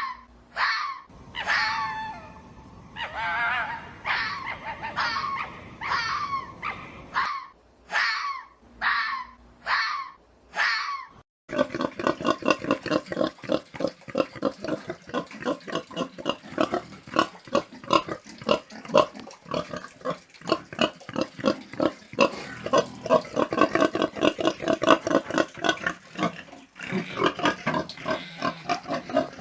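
Short, high animal cries repeating about every half second. About eleven seconds in, a sudden switch to a dense chorus of many pigs grunting and squealing together.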